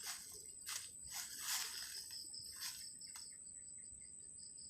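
Night insects, crickets or similar, trilling steadily at two high pitches. About six short hissing rustles come in the first three and a half seconds.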